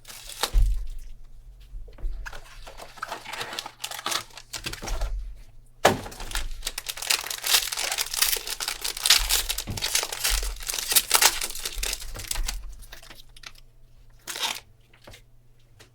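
Plastic packaging crinkling and tearing as a trading-card box and pack are opened by hand, with a sharp snap about six seconds in and the densest crackling in the middle.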